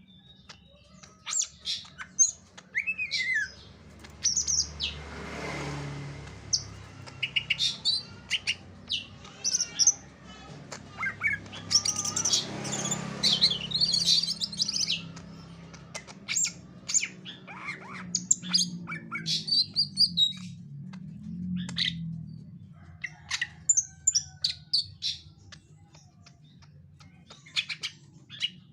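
Cage bird, a cucak ijo (greater green leafbird), calling in a run of short, rapid chirps and squawks with brief pauses, over a steady low hum.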